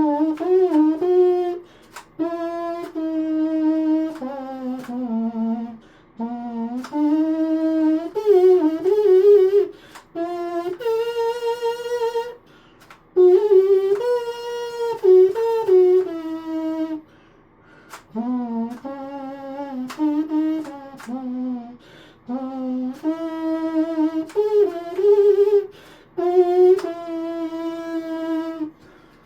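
3D-printed pocket trumpet with rectangular valves played as a melody: short phrases of held and changing notes with brief breaks between them. The player thinks the tubing still leaks some air.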